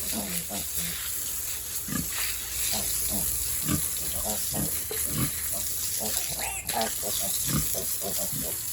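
Pigs in a sow-and-piglet pen grunting and squealing, with many short calls in quick succession over a steady high hiss.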